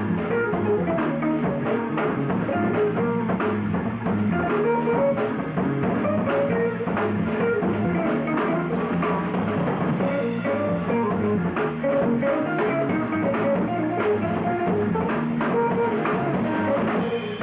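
Rock band playing a song at rehearsal: guitar and drum kit.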